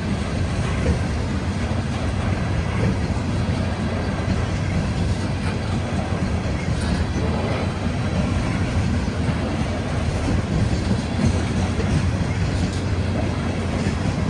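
Loaded coal train rolling by on a climbing grade: a steady, loud, low rumble of the train that neither builds nor fades.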